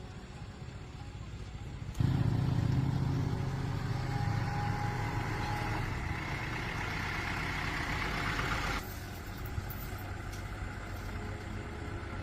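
A truck's engine running. It gets abruptly louder about two seconds in and drops back sharply a few seconds before the end to a lower steady running sound.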